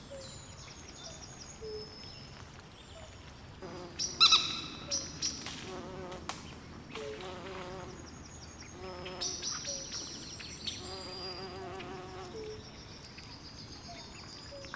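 Swamp night chorus: many overlapping short chirps and trills, some high and some low, with a louder burst of calls about four seconds in.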